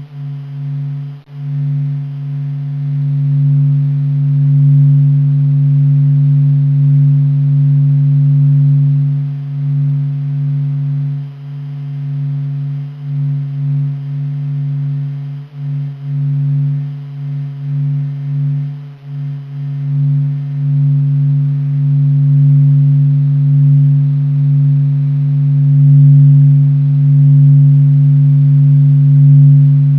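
NASA's sonification of the sun's vibrations: solar surface oscillation data sped up into hearing range, heard as a low steady hum with a fainter higher tone above it. Its loudness wavers, dipping and swelling several times through the middle.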